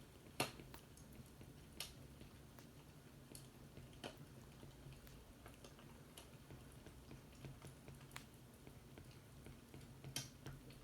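Faint fireplace crackling: scattered, irregular pops and snaps of burning wood over a low steady hum.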